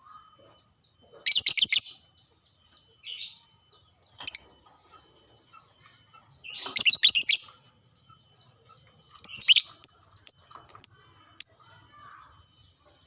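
Lovebird singing: several loud bursts of rapid, harsh chattering with short shrill chirps in between, and a fast high trill near the end.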